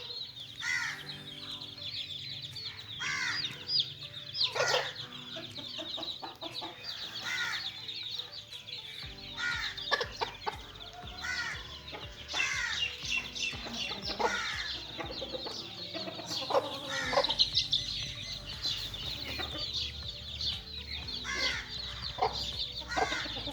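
A flock of chicks peeping in a constant high chorus, with louder chicken clucks and calls every second or so.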